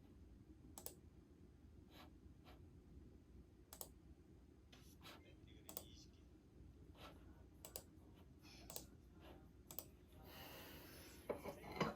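Scattered light clicks and taps, about one a second, with a brief rustle and a cluster of louder clicks near the end.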